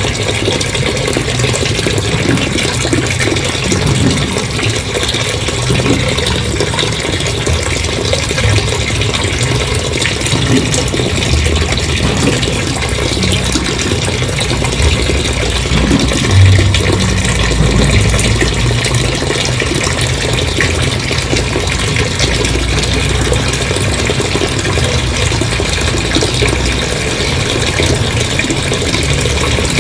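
Water gushing out in a steady heavy flow, with a brief louder surge about halfway through.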